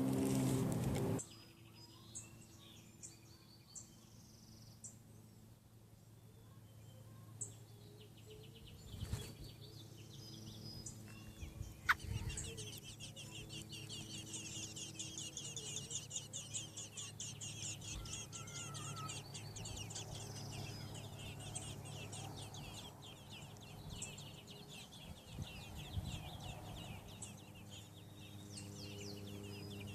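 Nestling American robins begging, a dense chorus of rapid high-pitched peeps that starts about twelve seconds in and runs for around fifteen seconds, the sign of a parent arriving at the nest with food. A brief louder noise cuts off about a second in.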